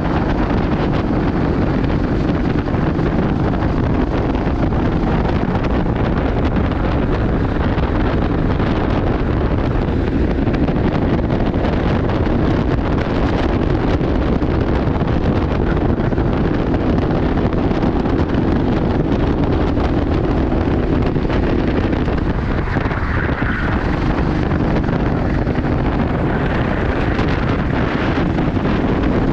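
Racing kart engine running continuously at speed during a lap, its pitch wavering as the driver works the throttle, with heavy wind noise on the microphone.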